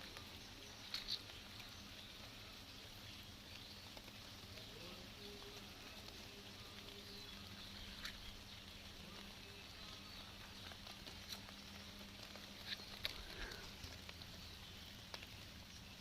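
Faint, steady hiss of light rain, with a few scattered drips ticking now and then.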